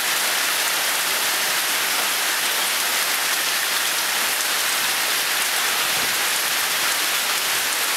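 Hailstorm: hailstones and rain pelting down in a steady, dense hiss.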